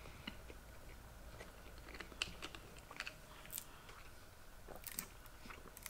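Faint chewing of people eating cheeseburgers, with scattered small mouth clicks and smacks.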